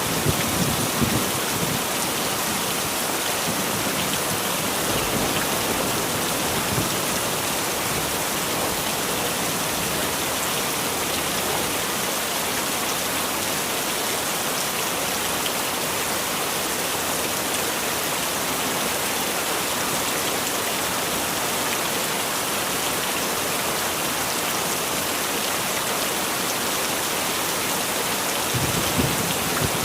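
Heavy rain falling steadily in an even hiss. A low rumble of thunder dies away in the first second or so, and another begins near the end.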